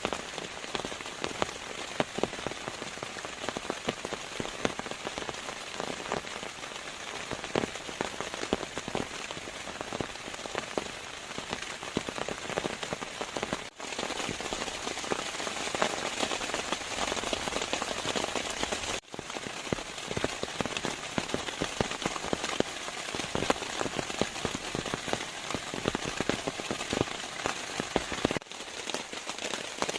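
Steady rain, with many close, sharp drop impacts over a dense, even hiss; the sound dips out very briefly three times.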